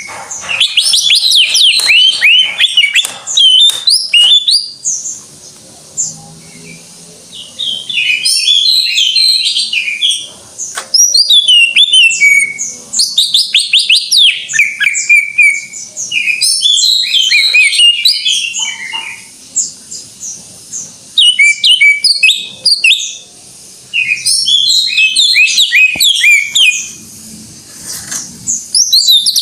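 Cucak ijo (green leafbird) singing loudly in full song: fast, varied phrases of sliding whistles and chattering notes, in bursts of a few seconds with short pauses between.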